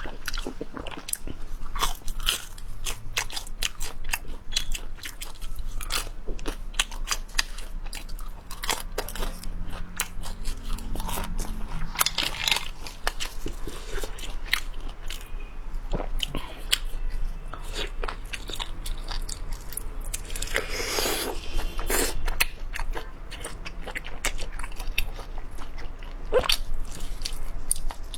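A person eating close to the microphone: repeated crunchy bites and chewing, with many sharp crunches and a denser spell of crunching about twenty seconds in.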